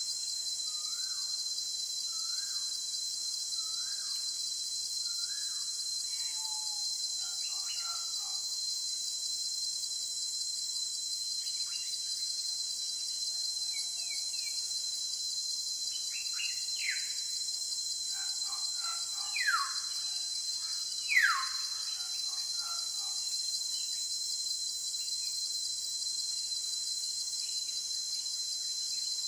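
Steady, high-pitched insect drone from crickets or cicadas, with birds calling over it. In the first few seconds one bird repeats a short rising note about every second. Scattered calls follow, and a little past the middle come two loud descending whistles about a second and a half apart.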